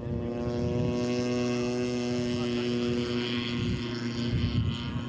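Radio-controlled scale model airplane's engine running in flight, an even drone that holds a steady pitch.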